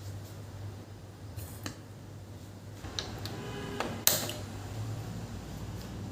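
Small clicks and clinks of kitchen items being handled, with one sharper clattering knock about four seconds in, over a low steady hum.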